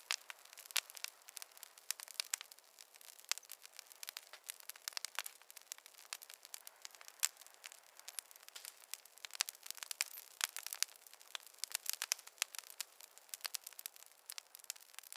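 Wood fire in a fireplace crackling, with frequent irregular pops and snaps, some sharp and loud, over a faint hiss.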